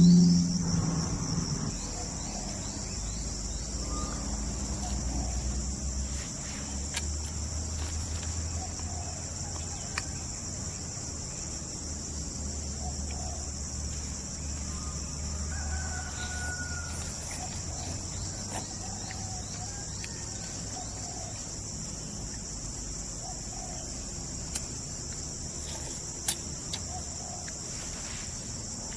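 Steady high-pitched buzzing chorus of forest insects such as crickets or cicadas, with faint scattered bird calls and a few soft clicks over a low rumble.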